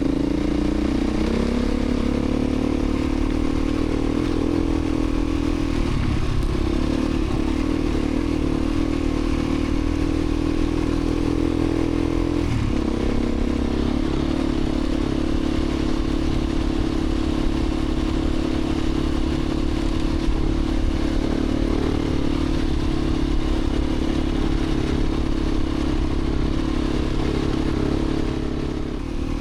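Beta 350 RRS dirt bike's single-cylinder four-stroke engine running at steady trail speed, with a clattering undertone. The engine note rises about a second in and shifts pitch twice, at about six and twelve seconds, and dips briefly near the end.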